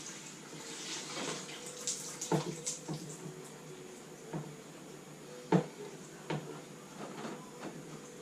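Irregular clinks and knocks of work on a classic Mini engine during its removal, over a faint steady hum. The loudest knock is about halfway through.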